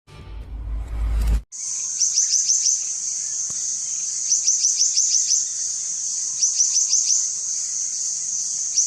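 A songbird repeating a short burst of rapid, high chirping notes about every two seconds, over a steady high hiss. A low rumble fills the first second and a half.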